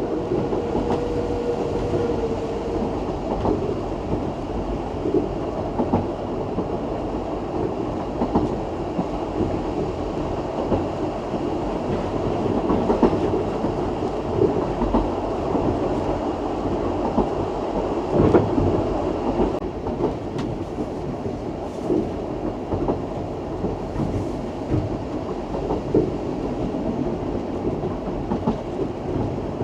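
A heritage steam train's carriage running along the rails: continuous running noise with irregular clicks, knocks and rattles from the wheels and coach. A single steady note is heard at first and stops about two and a half seconds in.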